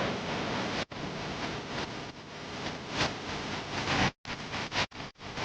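A steady rushing noise with no clear tone, briefly cutting out just under a second in and breaking into short choppy bursts with gaps near the end.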